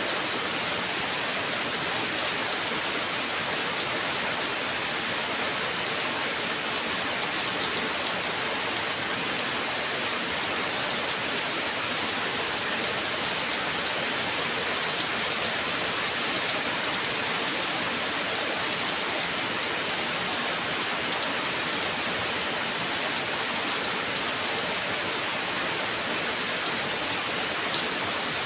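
Heavy, steady rain falling, a dense even hiss with scattered drop ticks.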